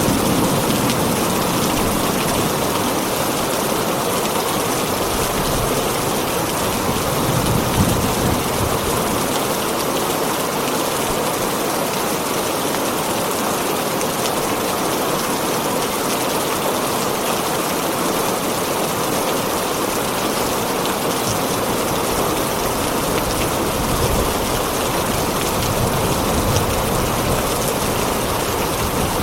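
Heavy rain pouring steadily on a tin roof, with a low rumble of thunder dying away at the start.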